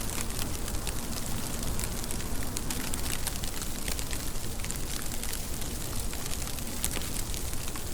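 Steady rain: a constant hiss with many separate drops ticking sharply on a surface.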